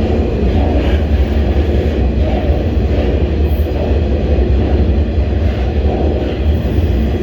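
Moving freight train heard from aboard a car: a steady, loud low rumble with rattling.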